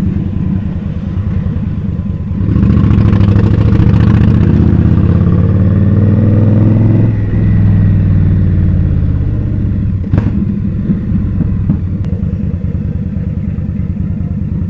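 Indian Scout V-twin motorcycle engine heard from the saddle, running low, then opened up about two seconds in and accelerating with rising pitch. It eases off around seven seconds in as the pitch drops back. A brief click comes near ten seconds.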